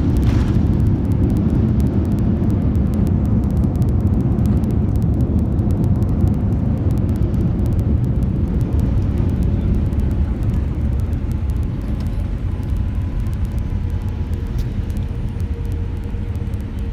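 Steady low rumble of an airliner's cabin noise from the engines and airflow, easing slightly near the end.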